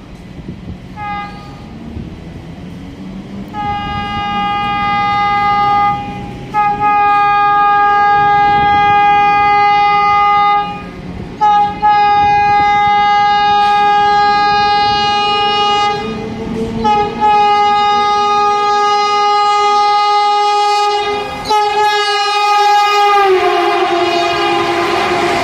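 Vande Bharat Express train horn sounding: two short toots, then five long blasts with brief breaks between them. Near the end the horn's pitch drops and the rush of the passing train rises.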